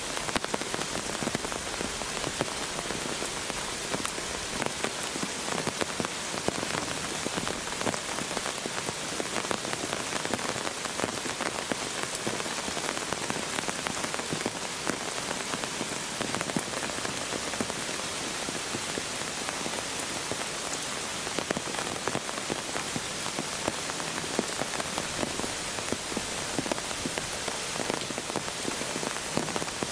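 Steady rain falling, with many separate drop ticks sounding through it.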